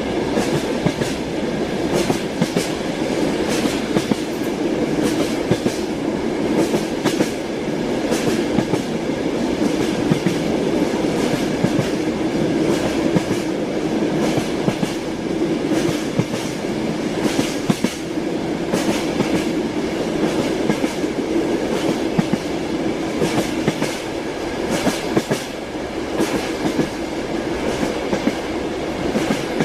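Train wheels clacking over the rail joints, heard from inside a moving railway carriage: frequent sharp clacks over a steady rumble of the running gear.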